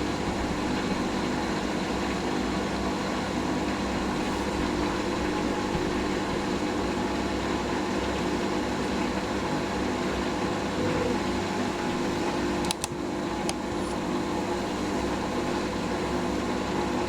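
Hoover SIX Inter@ct AAA Whisper 1600 washing machine running its drum motor with a steady hum as it sets itself up to start a 1600 rpm fast spin. A single short click comes near the end.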